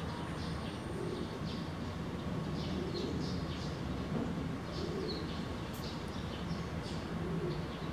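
Small birds chirping in short high notes, about two a second, over a steady low background rumble.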